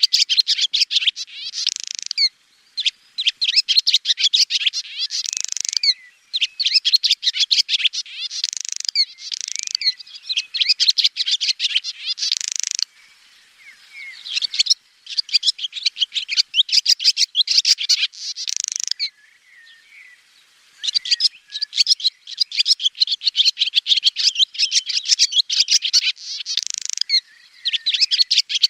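Swallow singing: runs of rapid, high twittering chirps, each run lasting a few seconds, with short pauses between them and two longer pauses past the middle.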